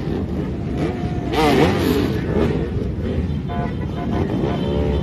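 Steady rumble of road vehicles with voices shouting and talking over it, and a brief horn-like toot about three and a half seconds in.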